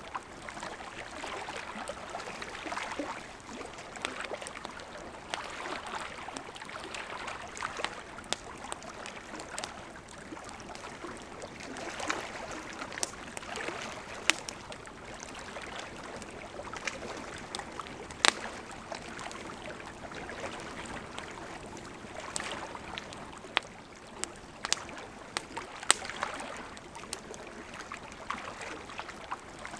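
Wood fire burning with a steady hiss and irregular crackles, a few sharper pops standing out.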